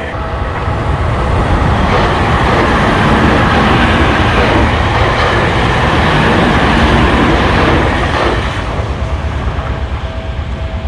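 A Tokyu Toyoko Line electric train passing over a level crossing. Its loud rumble dies away about eight seconds in, leaving the crossing's warning bell ringing in quick, even repeats.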